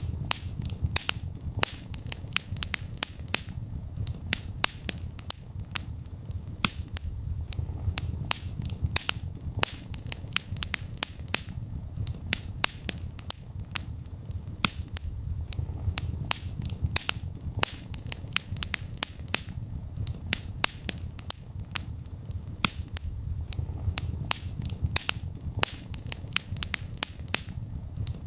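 Wood fire burning in a fireplace: a dense, irregular run of sharp crackles and pops over a steady low rumble of the flames.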